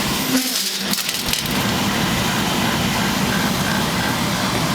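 Beckett oil burner running steadily after restarting, a constant fan-and-flame rush with a low hum, now firing again because the frozen fuel line has been thawed. A few light clicks and a brief dip in the low hum come in the first second or so.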